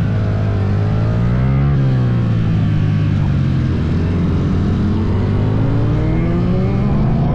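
Motorcycle engines running on the move, one holding a steady low note while another's pitch drops and then climbs again as it eases off and accelerates.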